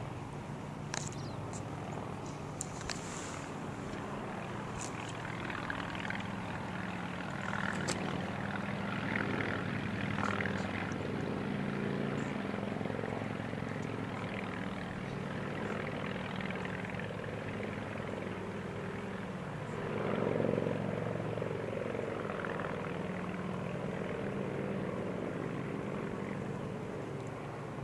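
Engine running at a constant speed, a steady low drone with a short swell about two-thirds of the way through.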